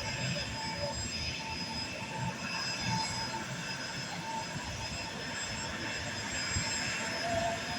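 Embraer E195's GE CF34 turbofan engines running with a steady high whine over a rushing noise.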